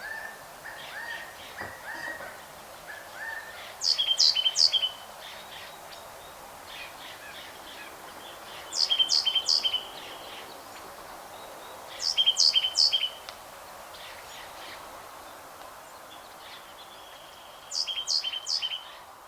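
Birds singing: four loud, high-pitched song phrases of about a second each, with softer chirping between them.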